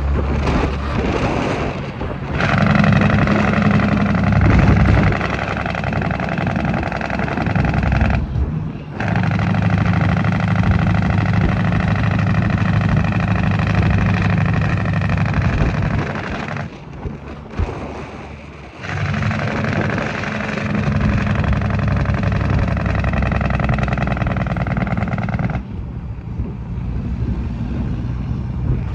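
Straight-piped Detroit Series 60 inline-six diesel in a Peterbilt 389 glider, pulling steadily under load with a heavy excavator on the trailer. The engine note drops off briefly about 8 seconds in and again for a couple of seconds around 17 seconds, then pulls again.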